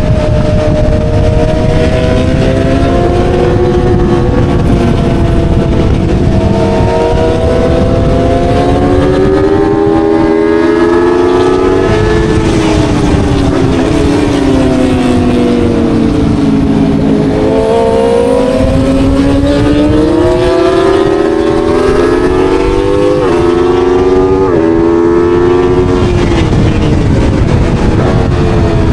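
Aprilia Tuono V4 motorcycle's V4 engine at track pace, its note rising and falling through the corners, with a few abrupt jumps in pitch near the end as gears are changed, over heavy wind rush.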